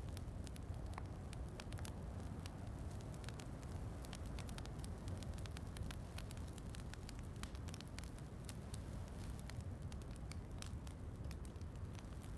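Fireplace crackling, with many small irregular pops and snaps over a steady low rumble.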